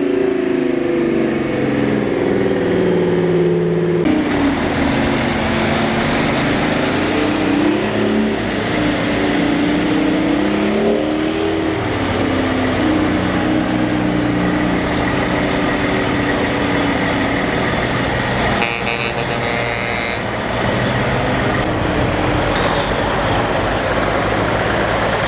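Heavy trucks' diesel engines running loud and continuous as they pass in a parade, the engine note rising and falling as they rev and change gear.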